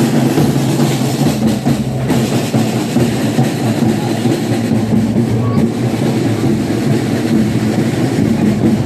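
Loud, continuous din of a street procession, with music mixed into the crowd noise.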